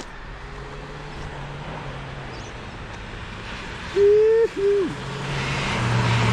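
Toyota 4Y four-cylinder petrol engine running as the Hilux drives, its note building with a rising rush of noise over the last second or so. About four seconds in, two short, loud hoots cut across it, the second ending with a drop in pitch.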